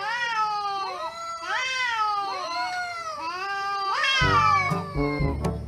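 Cats meowing, many rising-and-falling meows overlapping one another. About four seconds in, music with a low steady pulse comes in under the meows.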